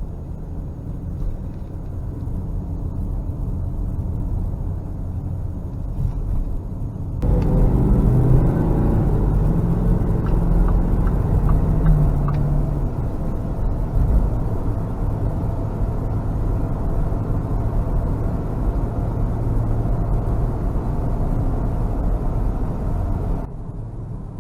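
A car running, a steady low engine and road rumble. About seven seconds in it turns abruptly louder, and it drops back shortly before the end.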